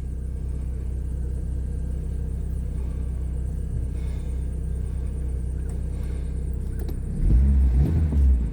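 1995 Plymouth Neon's four-cylinder engine idling steadily shortly after a cold start. Near the end there is a louder low rumble for about a second.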